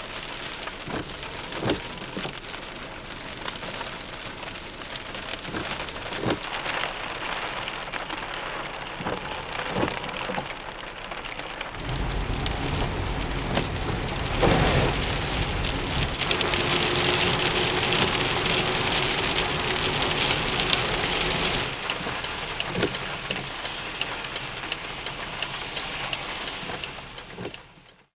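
Heavy rain falling, with individual drops tapping close by. About twelve seconds in, a deep rumble comes up over the rain and holds for about ten seconds before easing. The sound cuts off suddenly just before the end.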